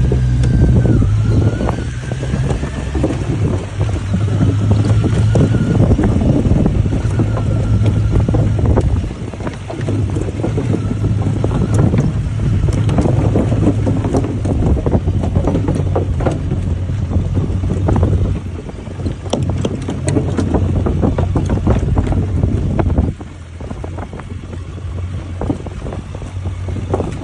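Motorcycle engine running under way, with wind buffeting the microphone. The engine note is strongest for the first nine seconds or so, then drops back under the wind and rumble.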